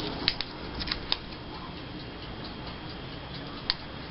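A few sharp, light clicks and taps from small craft supplies being handled on a desk, several in the first second and one near the end.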